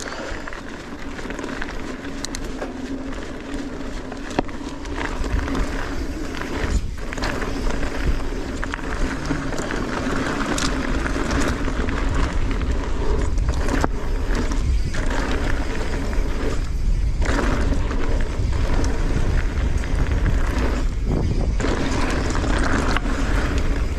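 Mountain bike riding fast down a dry, dusty dirt trail: knobby tyres rolling and skidding on loose ground, with wind rushing on the microphone. The rumble grows after the first few seconds, and the noise drops out briefly several times.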